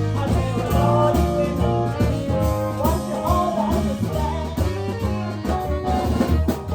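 Live blues band playing, with a steady bass line and drums under a lead line that bends in pitch in the middle.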